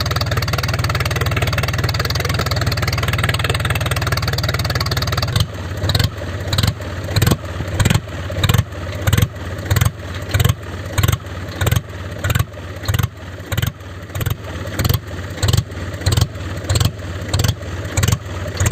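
Small motor of a homemade mini tractor running with a steady hum. About five seconds in, the sound changes abruptly to a regular pulsing about twice a second.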